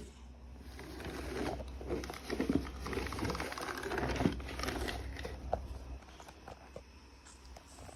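Crinkling and rustling with many light clicks and taps, over a low steady hum that stops about six seconds in.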